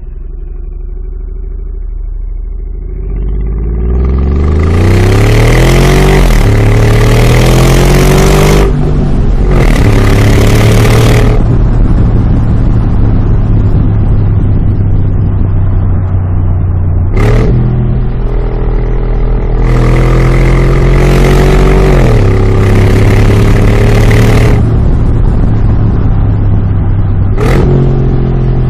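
Mercedes G63 Brabus twin-turbo V8 through its tuned exhaust, revved up from idle and held high twice, with a harsh rasp at the top. There are short sharp throttle blips about 17 seconds in and near the end.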